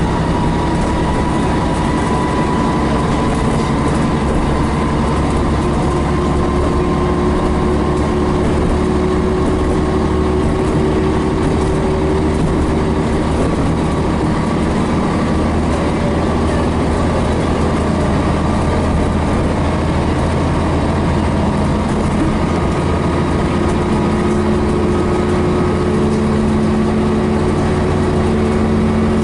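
The Scania BR111H bus engine running while the bus is under way: a steady drone whose pitch rises and shifts slowly.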